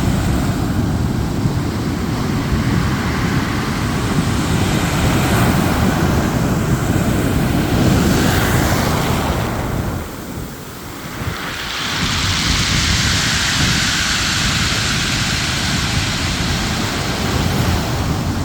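Ocean surf on a beach, a steady rushing wash of waves, with wind buffeting the microphone as a low rumble. About ten seconds in the rumble briefly drops away, and then a brighter hiss of washing water follows.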